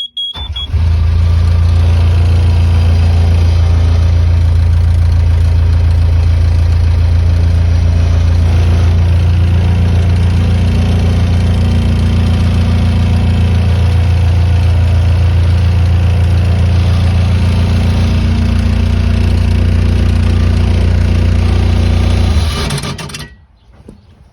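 Skid loader engine started: a brief high tone, then the engine catches within the first second and runs loud and steady for about twenty seconds before it is shut off and dies away near the end.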